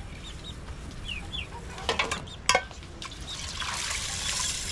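Chickens clucking and chirping, then a few sharp knocks about two seconds in. A rush of water begins near the end.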